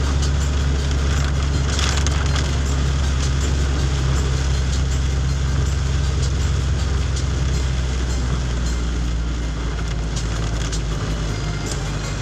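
Steady low rumble of a vehicle driving, under an even hiss of heavy rain and wet road, easing a little near the end.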